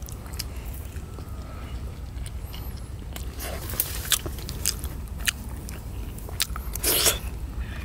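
Close-up eating sounds of people chewing cooked eggs: a string of short, wet mouth clicks and smacks, with one louder, longer bite or smack about seven seconds in.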